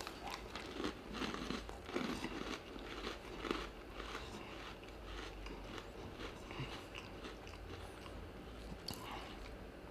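Faint crunching as a Red Velvet Oreo sandwich cookie is bitten and chewed, with a few crisper crunches in the first few seconds, then quieter chewing.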